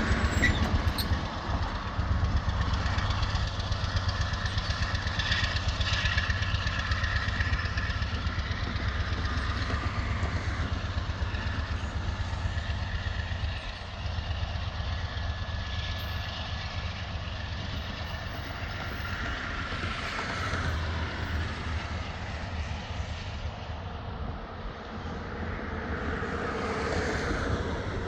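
A train rolling by with a steady low rumble.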